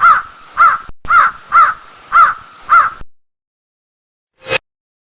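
A bird calling over and over, about two harsh arched calls a second, cutting off abruptly about three seconds in; a single short click follows about a second and a half later.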